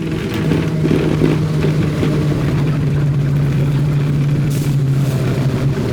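Vintage Brooklyn Union gate subway car heard from aboard: a steady low hum over a rumble, the hum setting in about half a second in and easing near the end.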